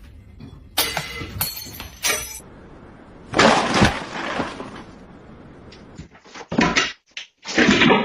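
Several sudden crashes and clatters of objects falling and breaking, with a glassy clink to them.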